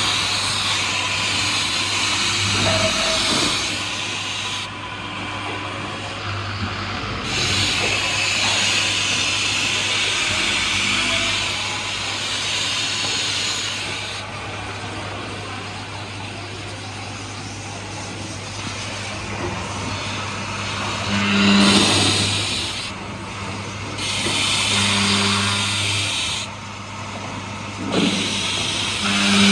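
Woodmaster WM-2800-S2R4 heavy-duty two-way boring and milling machine working: a steady motor hum runs under repeated bursts of hissing, each a few seconds long, from about the start, again from about 7 to 14 seconds in, and three shorter times near the end.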